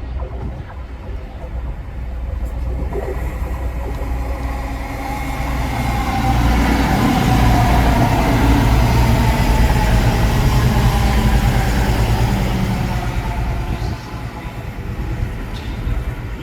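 CrossCountry diesel passenger train arriving along the platform. Its engine rumble and wheel noise build to their loudest about six seconds in, with a whine falling in pitch, then ease off near the end.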